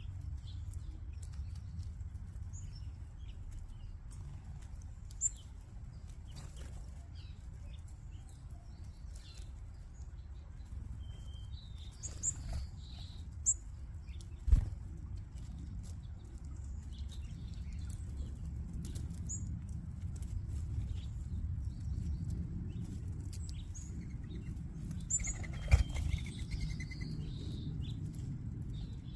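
A flock of feeding backyard birds: wings flapping and scattered high chirps and tweets, with a few sharp knocks about halfway through and near the end, over a steady low rumble.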